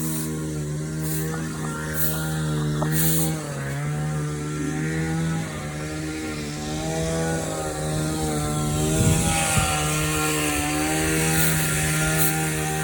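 Small petrol engine of a garden cutting tool running steadily at high revs, its pitch wavering a little.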